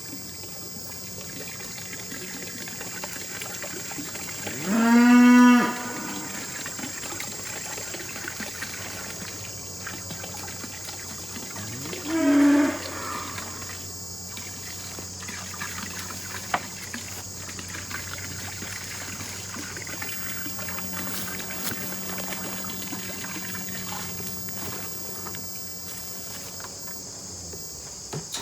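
Irish Dexter cattle mooing twice: a longer moo about five seconds in and a shorter, higher one about twelve seconds in. Insects chirr steadily in the background.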